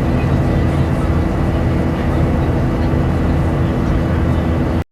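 Airbus A380-861 airliner's Engine Alliance GP7200 engines and airflow, heard as a loud, steady cabin drone from inside the aircraft, with a faint high whine on top. It stops abruptly near the end.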